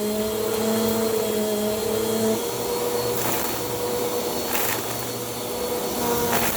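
Bissell PowerForce Compact vacuum running with a steady motor whine that drops and changes pitch a little over two seconds in. A few short crunchy crackles come as bits of debris are sucked up.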